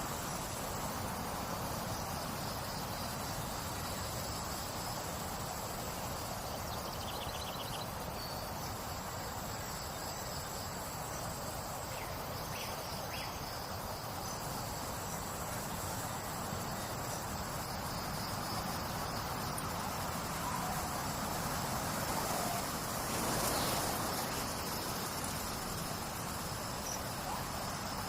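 Crickets and other insects trilling steadily over a constant rush of babbling water, with a few brief faint calls from birds or other animals now and then.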